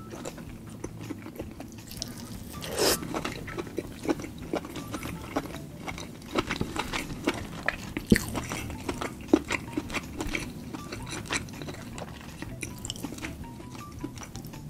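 Close-up eating sounds: a person chewing a mouthful of shellfish meat in sauce, with many small wet clicks and smacks. There is a louder, rougher, breathy sound about three seconds in.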